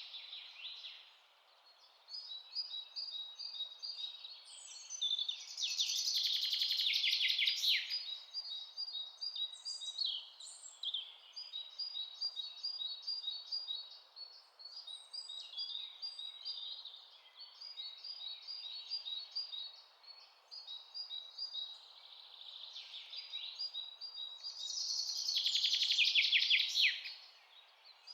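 Forest songbirds singing and chirping over a steady background hiss, with a louder rapid trill about five seconds in and another near the end.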